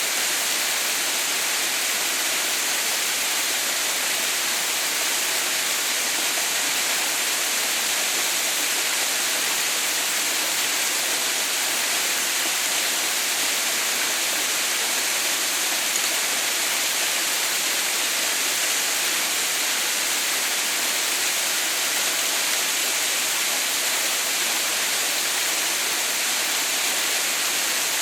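Waterfall falling and splashing in a steady, even hiss.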